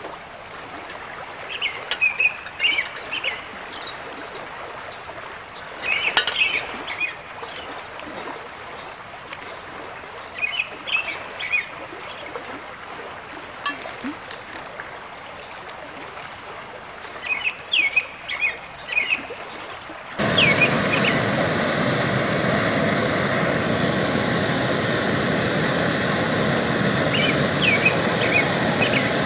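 A songbird singing short, quick phrases of chirps every few seconds over a quiet background. About two-thirds of the way through, the sound cuts abruptly to a loud, steady rush of river water, with a bird still chirping near the end.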